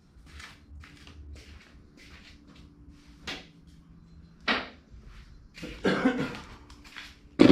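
Light clicks and scrapes of small metal parts and a hand tool as a little screw is worked into a motorcycle's ignition coil mounting. A sharper knock comes about four and a half seconds in, and louder clunks follow near the end.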